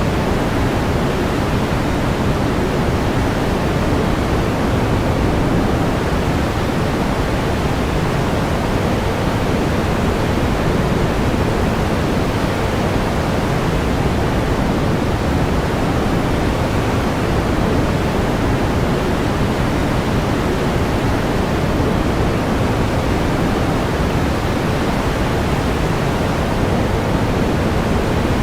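Steady pink noise: an even hiss with more weight in the low end, unchanging throughout.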